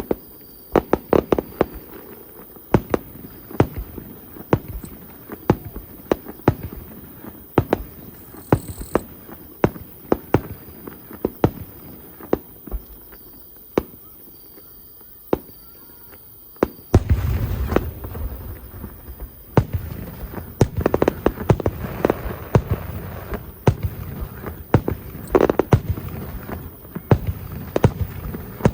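Aerial fireworks bursting in quick succession, with many sharp crackling bangs. A louder, deeper boom lands a little past the middle, followed by a denser barrage of bursts.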